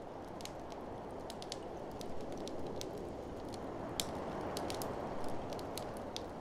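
Wood fire crackling with sharp, irregular pops over a steady rushing blizzard wind.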